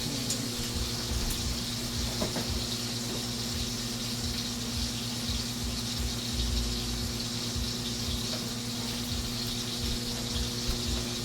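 Steady stovetop cooking hiss, food sizzling or a pot simmering, over a constant electrical hum from a kitchen appliance.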